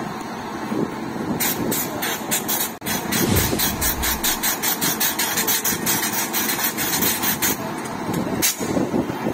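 Train passing, wheels clattering over rail joints in a steady rhythm of about three to four clacks a second over a continuous rumble. The clacking stops about a second before the end.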